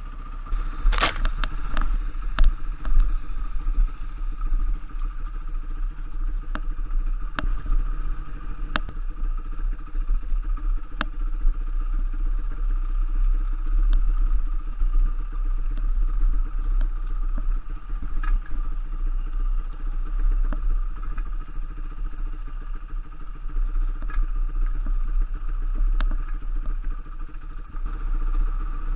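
Enduro trail motorcycle's engine running at a fairly steady pace while riding a dirt trail, with scattered knocks and clatter from the bike over rough ground, the sharpest about a second in.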